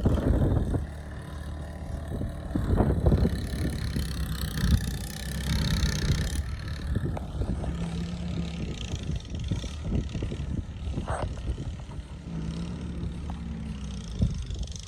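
A motor vehicle running, with a steady low rumble of engine and road noise, a hum that rises in and out now and then, and scattered short knocks.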